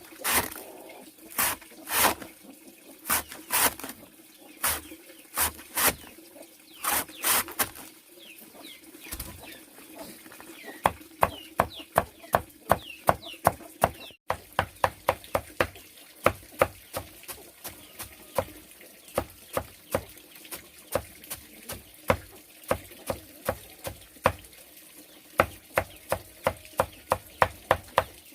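A bladed hand tool striking repeatedly in farm work. The strikes come about one every second or so at first, then quicken to about three a second from about ten seconds in.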